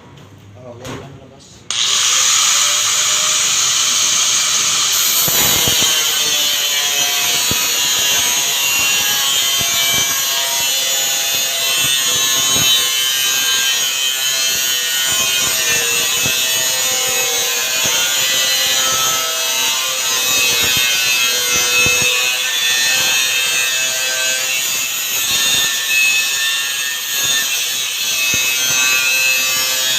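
Power saw cutting, starting about two seconds in and running steadily under load, its pitch wavering as the blade works through the material.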